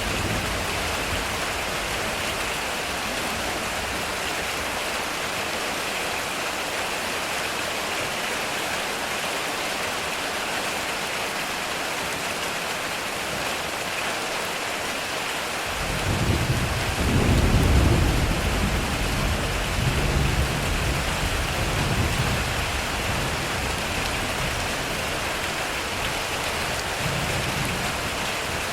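Heavy rain falling steadily on a metal roof. Past the halfway point a roll of thunder breaks in suddenly, rumbles loudest for a couple of seconds and dies away in lighter rumbles, with a faint further rumble near the end.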